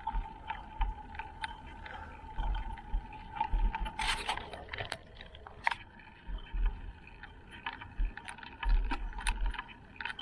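Bicycle ride on city streets heard from the rider's camera: wind buffeting the microphone in gusts, with small clicks and rattles from the bike. A steady thin whine runs for the first four seconds or so, and a short loud hiss comes about four seconds in.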